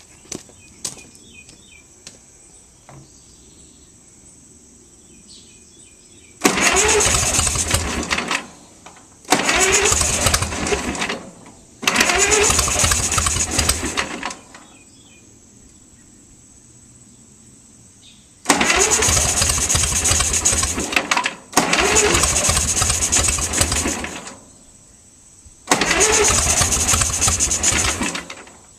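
Old Centaur KV tractor engine cranked by its electric starter in six bursts of about two seconds each, trying but not running on its own. The owner puts the poor running down to a leaking head gasket. A few light clicks come first.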